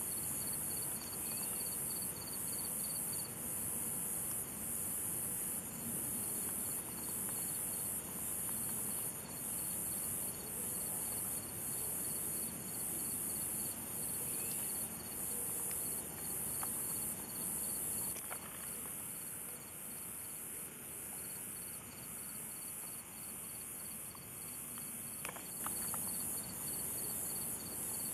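A chorus of insects calling: a loud, high buzzing that swells about once a second, over a fainter, steady, fast trill.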